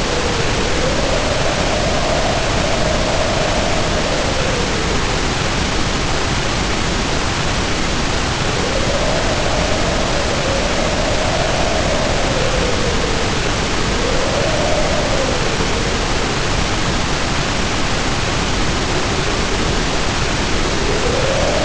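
Heavy rain pouring steadily under wind that howls in slow swells, its pitch rising and falling several times.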